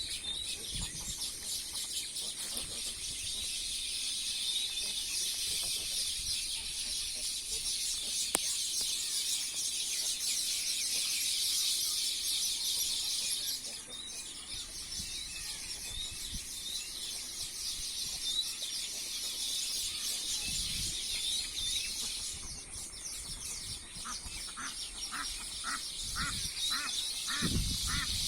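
A steady high-pitched insect chorus of crickets or cicadas, louder in the first half. Near the end, birds call in a rapid run of short evenly spaced calls, about three a second.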